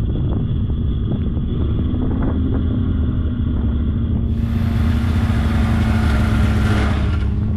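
Polaris snowmobile engine running steadily while riding, with a steady engine tone; about four seconds in a loud rushing hiss joins it.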